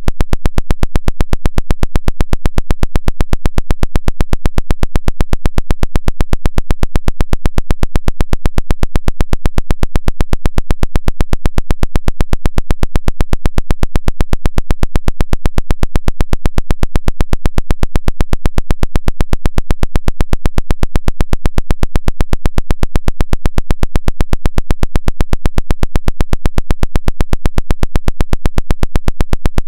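Pulsed radio interference of the 'Woodpecker' kind: a loud, fast, even tapping of rasping pulses, several a second, repeating without a break. The uploader takes it for an electronic-harassment jammer.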